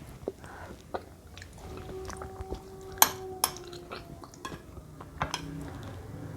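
A spoon clinking against a bowl of banana porridge, a few sharp clinks with the loudest about three seconds in, between softer wet stirring and scooping sounds.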